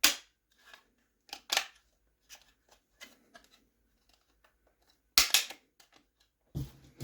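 Scattered sharp clicks and taps of small 3D-printed plastic body parts and screws being handled and fitted together. The loudest clicks come at the start and about five seconds in.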